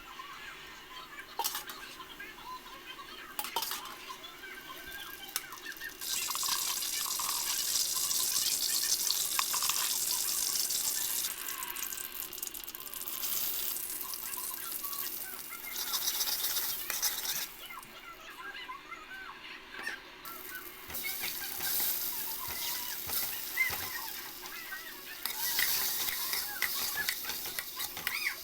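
Eggs frying in hot oil in a pan: a sizzling hiss that swells and dies back several times, with scattered small clicks. Birds chirp in the background throughout.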